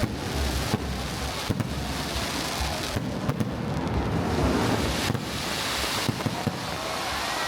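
New Year countdown fireworks going off: a continuous rumble of bursts with many sharp pops and crackles through it.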